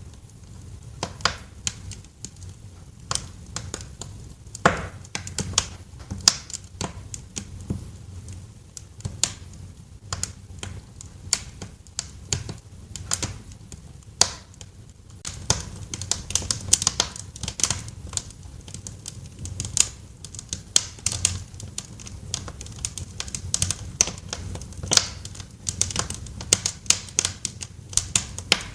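Wood fire crackling in a fireplace: irregular sharp pops and snaps over a low steady rumble, growing busier about halfway through.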